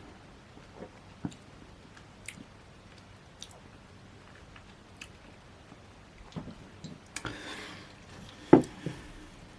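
Mouth sounds of a person tasting beer: small lip smacks and clicks, a short breathy rush about seven seconds in, and two low thumps near the end.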